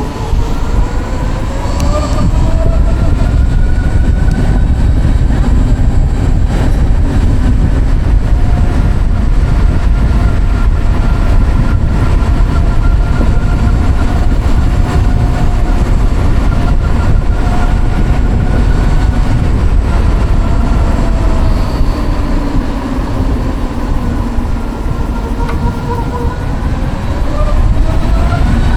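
Savic C3 electric motorcycle's liquid-cooled permanent-magnet motor whining under way. The whine rises in pitch as it accelerates early on, holds steady at cruising speed, drops as it slows, and climbs again near the end, over heavy wind rumble.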